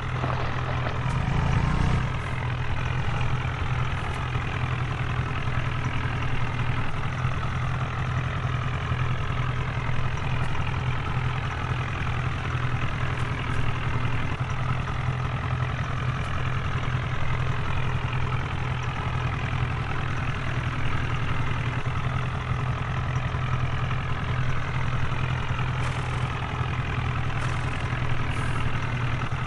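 HMT tractor's diesel engine running at a low, steady speed, with a brief rise in revs about a second in.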